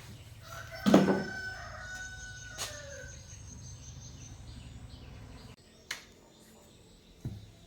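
A rooster crowing once, starting about a second in and trailing off over the next two seconds, over a low steady hum that cuts off abruptly past halfway. Two short clicks follow near the end.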